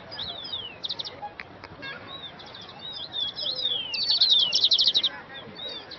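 Wild birds chirping and singing, with quick trills of short high notes and falling slurred whistles. The loudest run of trills comes about four seconds in.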